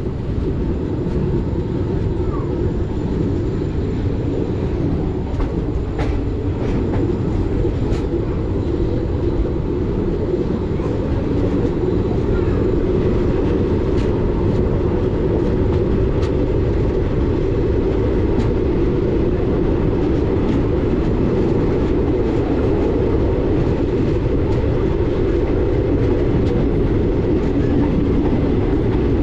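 Passenger train running along the track, heard from on board: a steady rumble of coaches and wheels with scattered sharp clicks from the rails, growing a little louder about twelve seconds in.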